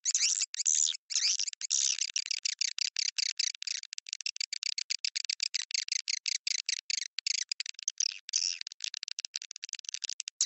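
Swiftlet call-lure recording: dense, rapid twittering chirps of swiftlets, several per second, chopped by short silent breaks.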